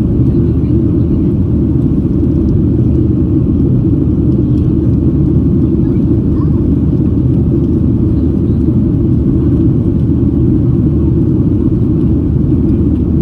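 Steady cabin roar of a Boeing 737-800 in flight, heard from a rear coach window seat: the drone of its CFM56-7B turbofans and rushing airflow, low and even throughout.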